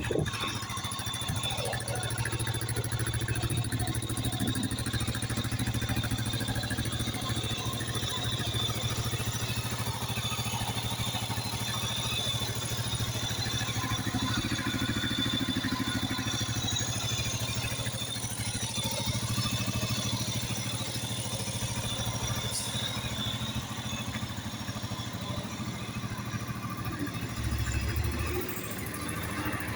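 Mash X-Ride motorcycle engine idling steadily, briefly louder near the end.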